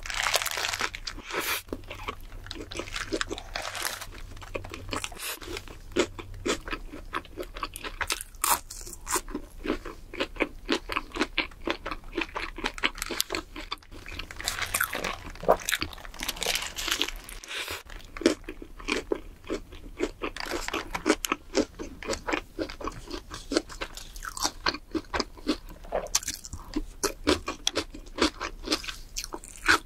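Close-miked ASMR eating: a big bite into a burger right at the start, then steady chewing with rapid small clicks and crunches.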